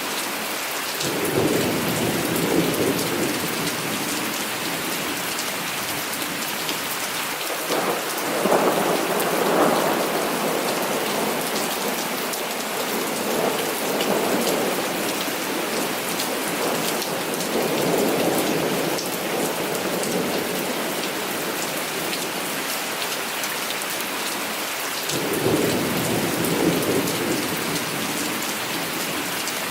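Heavy rain falling steadily, with several rolls of thunder rumbling and fading over it, the first about a second in, the last near the end.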